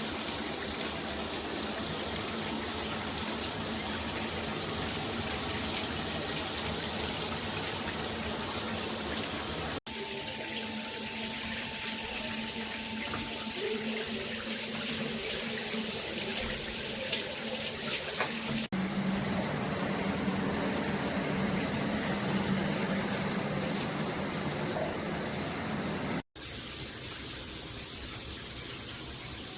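Water spraying steadily from a shower head, in several stretches joined by three abrupt cuts.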